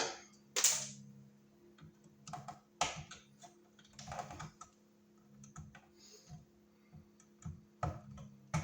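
Irregular clicks and scrapes of hand tools and bare copper ground wires being gathered and twisted together in an electrical box, over a faint steady hum.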